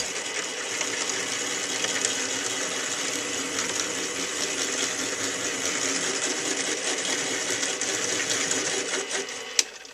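Dremel rotary tool motor in a drill press, switched on and running steadily at high speed, then switched off with a click about half a second before the end; the drill bit has not yet been tightened in the chuck.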